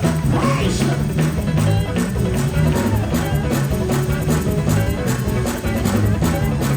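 Live church band playing a fast dance groove: electric guitar, bass and drum kit.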